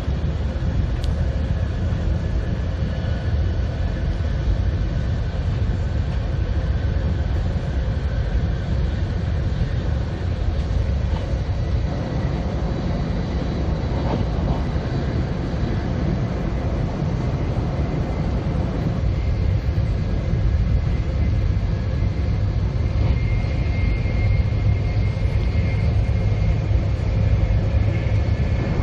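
Steady low rumble of a Sanyo Shinkansen 700 series train running at speed, heard inside the passenger cabin. A faint high whine joins in about three-quarters of the way through.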